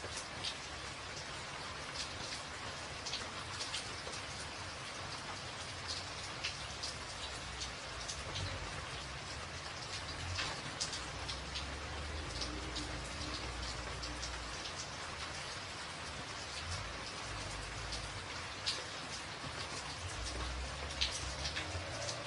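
Steady rain drumming on a tin roof, with many sharp individual drop ticks over an even hiss. A low rumble rises underneath at times, about halfway through and again near the end.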